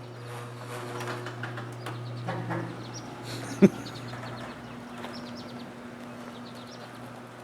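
Old up-and-over garage door opening: a steady low mechanical hum, a single loud clunk about three and a half seconds in, after which the hum goes on at a higher pitch.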